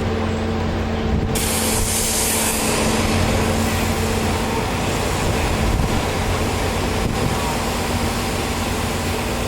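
Pressure washer running: a steady motor hum, with the high-pressure water spray hissing on suddenly about a second in and running on.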